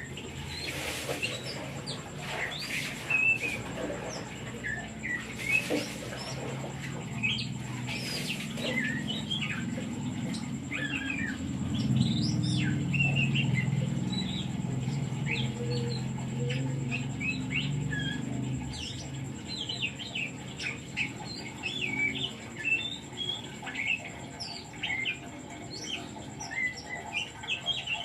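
Oriental magpie-robin (kacer) singing: a rapid, continuous run of short, varied chirps and whistles. A low rumble swells underneath through the middle.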